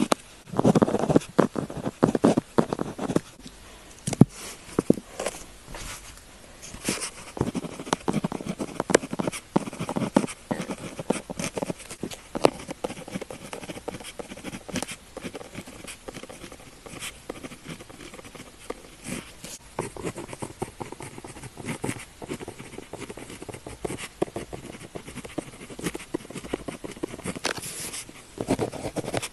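Pen nib scratching across paper in quick, irregular writing strokes, busier near the start and again near the end.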